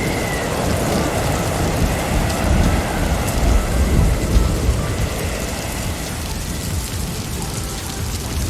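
Steady blizzard noise: wind and blowing snow with a deep rumble underneath, swelling louder between about two and five seconds in.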